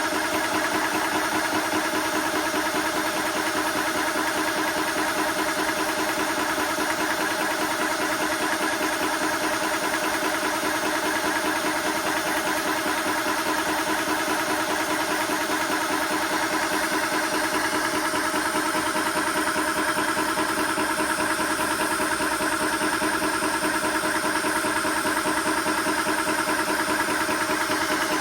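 TOAUTO A1X portable high-pressure PCP air compressor running steadily, a constant motor and pump hum.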